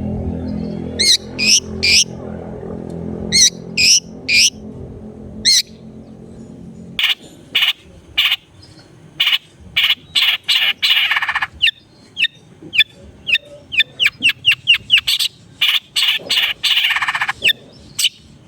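Long-tailed shrike (cendet) calling loudly. At first it gives pairs of wavering notes; from about seven seconds in it gives a quick series of short, sharp notes broken by two harsh rasping calls.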